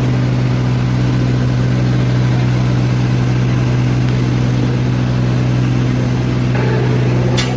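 Tractor's diesel engine running loud and steady, holding an even drone, with a few short sharp clicks near the end.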